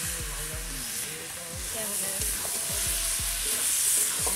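Thick spiced curry sizzling in an iron kadai over a wood fire while it is stirred with a long metal spatula.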